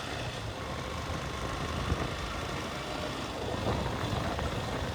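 Motorcycle engine running steadily while riding, with road rumble.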